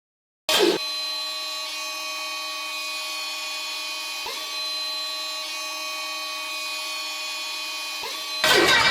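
A steady, high-pitched electric motor whine from the ship's engine-starting gear starts abruptly, with two short clicks partway through. Near the end the ship's engine fires and a much louder, rougher running noise takes over: a cold start.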